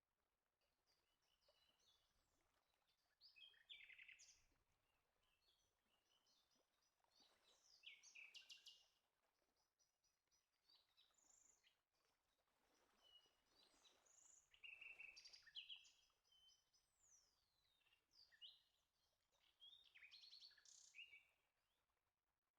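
Faint birdsong: several clusters of short chirps and trills from small birds, with quieter gaps between them.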